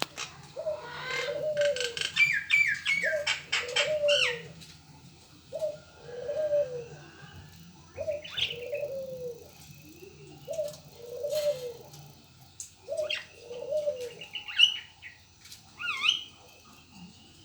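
Puter (Barbary dove) cooing, a low rolling coo repeated about every two seconds. Higher chirps and falling whistle notes from other small birds sound over it, thickest in the first few seconds and again near the end.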